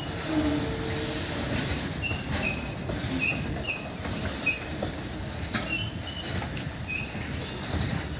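Train passing at speed on the track: a steady rumble of wheels on rail with clicks over the rail joints, and a run of short high squeaks from the wheels starting about two seconds in.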